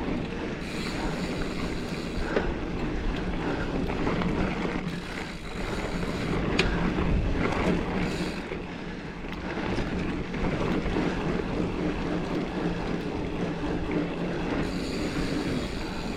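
Giant Fathom mountain bike riding over a dirt trail. Its tyres rumble on the ground while the bike rattles steadily, with scattered sharp clicks.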